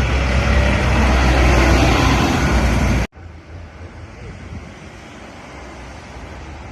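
Tractor engine running loud and close, a steady deep drone with road noise. About three seconds in it cuts off abruptly to quieter, more distant engine and road noise.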